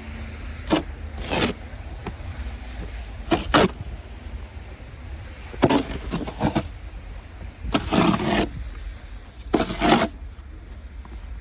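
Snow shovel scraping over pavement in five short bouts about two seconds apart, over a steady low rumble of wind on the microphone.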